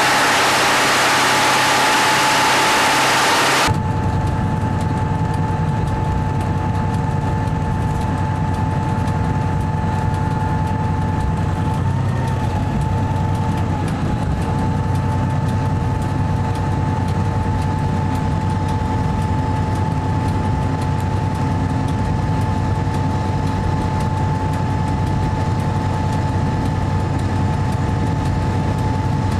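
A DR-1A diesel multiple unit's diesel engine idling steadily, with a constant low drone and a steady whine above it. For the first few seconds there is a louder hissing rush, which cuts off abruptly.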